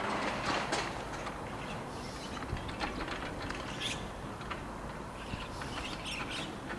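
Strong wind buffeting the microphone with a steady low rumble, with scattered short bird chirps and clicks over it.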